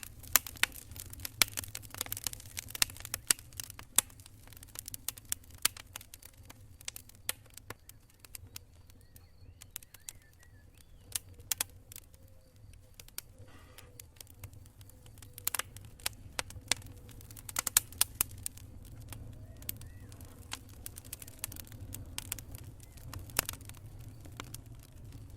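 Wood campfire crackling: irregular sharp pops and snaps of burning wood over a steady low rumble.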